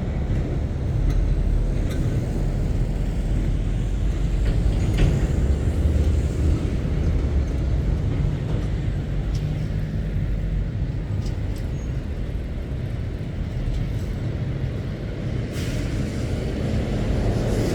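Heavy lorry diesel engines running as trucks pull through, a steady low rumble, with a brief hiss near the end.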